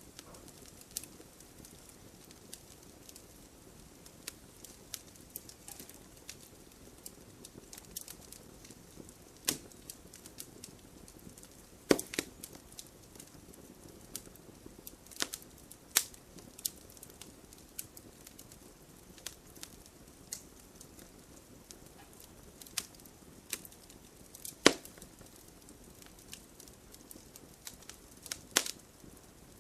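Wood fire crackling: sharp irregular pops and snaps over a low, steady hiss of burning, with a few louder cracks spread through.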